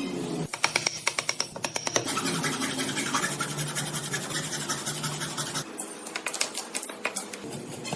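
Wood being worked with tools: a quick run of sharp scraping clicks, then steady grinding with a low hum that stops near the end.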